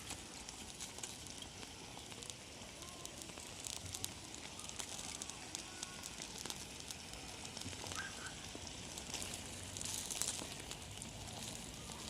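Small wood fire crackling, with frequent sharp pops over a steady hiss and a louder flurry of pops about ten seconds in.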